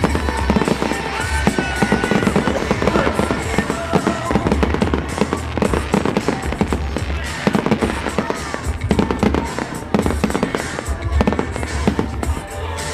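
Fireworks going off in a rapid, dense run of bangs and crackles, over loud music with a steady bass.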